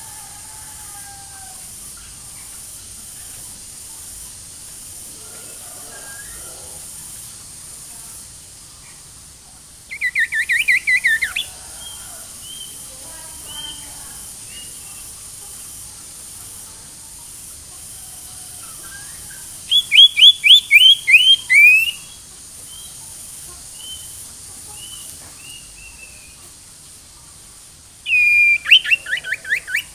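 Ashy tailorbird (sirtu) song used as a lure call: three loud bouts of rapidly repeated notes, each dropping in pitch, about ten seconds apart. Faint chirps are heard between the bouts.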